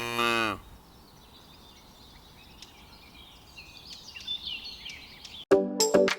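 A cow mooing, the long call falling in pitch and ending about half a second in. Faint bird chirps follow, and music starts near the end.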